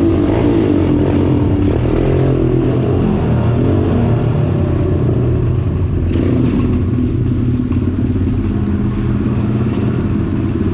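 A 150cc dirt bike's engine running close by with a rapid, even firing beat, misfiring.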